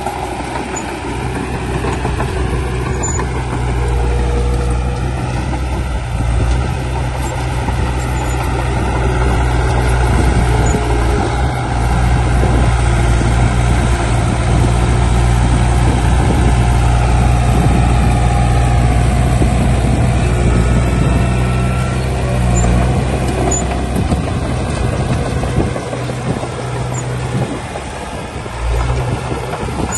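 Heavy diesel engine of earthmoving equipment running steadily, with a deep low drone that swells a little through the middle and eases near the end.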